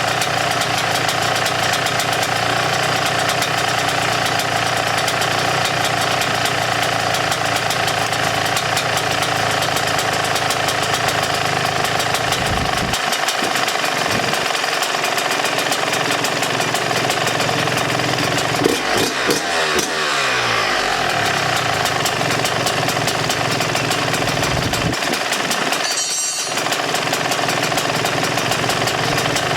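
2018 Yamaha YZ125's single-cylinder two-stroke engine running on its freshly installed piston, with a short burst of throttle about nineteen seconds in whose pitch then falls back.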